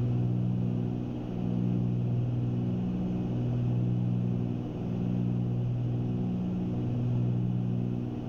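Twin piston engines and propellers of a Cessna 310 droning steadily in a climb, heard from the cabin. The drone rises and falls slowly every few seconds, the beat of two engines turning at slightly different speeds.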